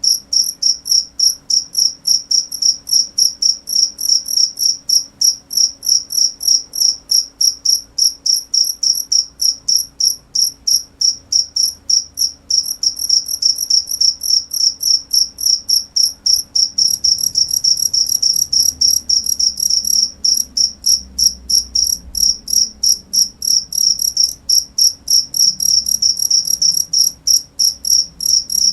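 A cricket chirping steadily: short, high-pitched chirps repeated evenly, about three to four a second. A bit past halfway, a faint high hiss joins beneath the chirps.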